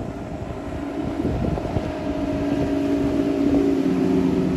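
Motorboat engine running steadily on the river, its hum growing louder as the boat comes closer.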